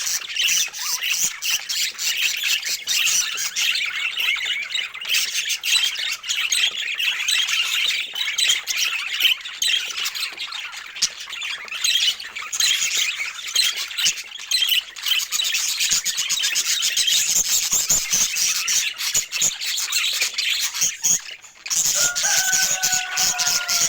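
A flock of budgerigars chattering and warbling: a dense, continuous mix of quick chirps and squawks. Near the end the chatter breaks off briefly, then resumes with a held tone over it.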